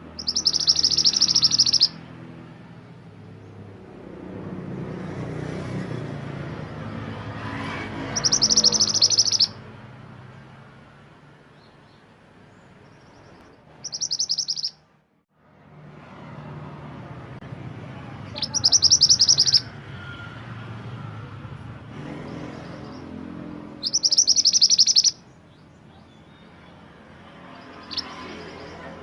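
A mantenan gunung singing, a loud, dense, high trill lasting about a second and a half and repeated five times, every five or six seconds. A low steady background rumble runs between the phrases and drops out briefly near the middle.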